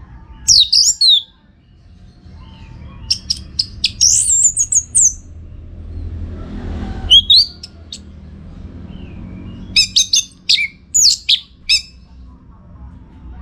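Orange-headed thrush (anis merah) singing: four bursts of high, rapid whistled and chattering phrases with pauses between them, and a low rumble under the song around the middle.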